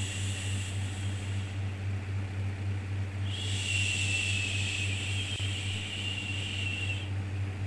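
Slow, repeated 'shhh' shushing sound for soothing a baby, over a steady low hum. One shush trails off in the first second and another long one runs from about three to seven seconds in.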